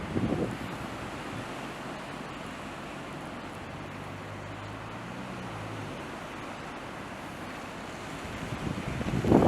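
Gale-force blizzard wind buffeting the microphone, a loud gust right at the start and another building near the end. A faint low steady hum sits under it in the middle.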